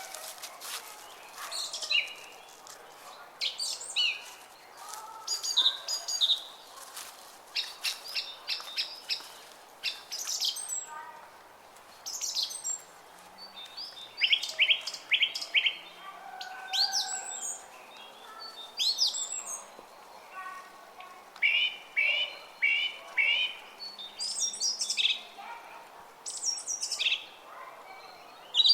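Several songbirds calling and singing in overlapping phrases: runs of quickly repeated notes, short falling whistles and trills, one after another throughout. Faint running water of a brook sounds steadily beneath them.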